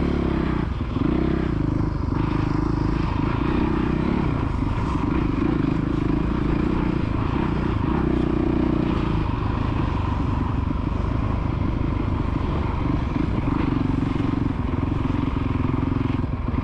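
Motocross bike engine running hard on a dirt track, its pitch repeatedly climbing and dropping as the throttle is opened and closed through the turns and straights, with a steadier stretch near the end.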